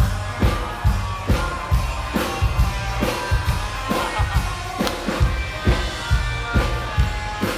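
Live band playing an instrumental stretch between sung lines: a drum kit keeps a steady beat of about two kick-drum strikes a second under bass and guitar.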